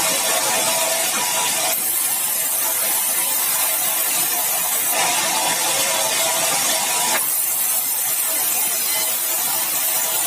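Sawmill saw cutting meranti timber: a loud, hissing cutting noise with a steady whine, changing abruptly several times.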